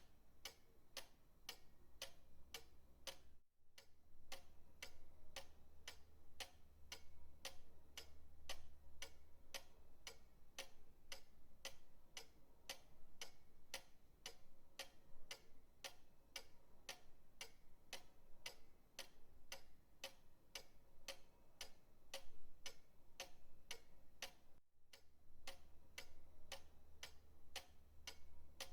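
Pendulum clock ticking steadily, about two to three even ticks a second, with two very brief dropouts.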